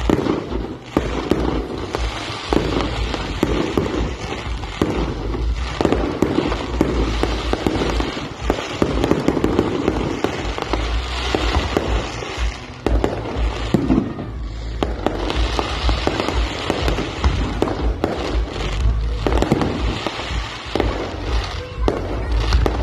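Fireworks display: a dense, continuous barrage of aerial shell bangs and crackling with a heavy low rumble.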